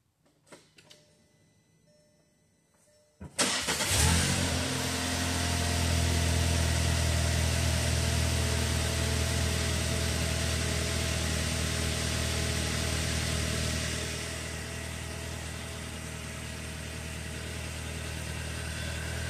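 2020 VW Tiguan engine cranked and started about three seconds in, after a few faint clicks, then settling into a steady idle. The sound eases a little about ten seconds after the start.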